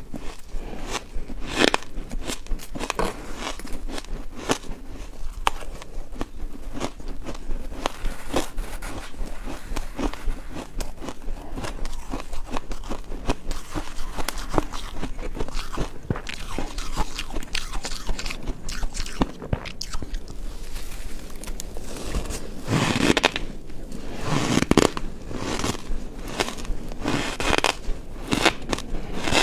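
Ice being bitten and chewed close up: a dense, irregular run of sharp cracking crunches, with a few louder crunching bites in a cluster near the end.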